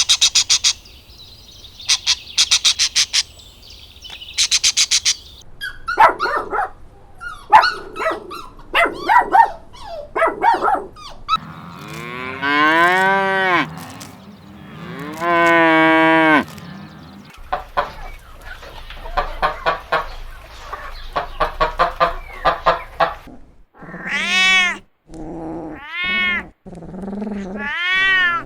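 A run of different animal calls: quick high chirping pulses, then broken clicky calls, then two long drawn-out cow moos that rise and fall in pitch, and finally three shorter rising-and-falling calls near the end.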